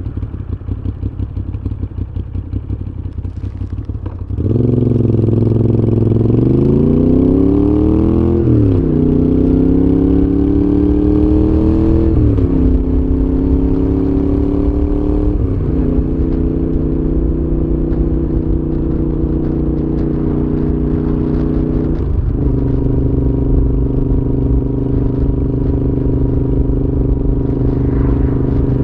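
Moto Guzzi V7's transverse V-twin through an aftermarket Mistral exhaust, pulsing at low revs, then opening up and pulling hard. It rises in pitch and drops back at each of four upshifts, then settles into a steady cruise.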